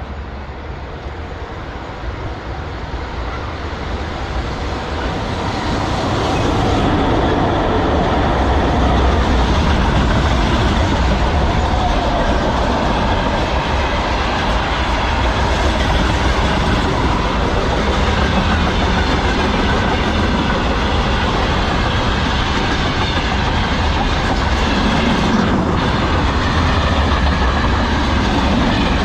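VL11 electric freight locomotive and its train passing close by. The noise builds over the first several seconds, then settles into the steady sound of wagon wheels running on the rails.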